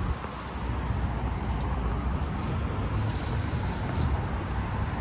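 City street traffic: cars passing with a steady low rumble and a faint drifting engine or tyre tone.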